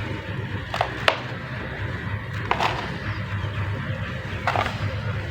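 Water pouring onto soft mud and cement shapes, a steady wash of noise broken by a few sharp cracks and snaps as the wet material crumbles and breaks apart.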